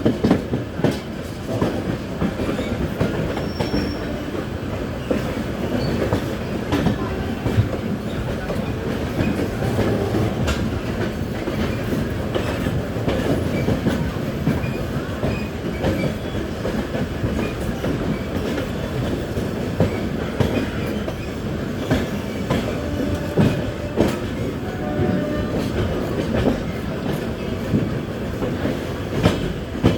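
Train running at speed, with a steady rumble and the repeated clickety-clack of wheels over rail joints.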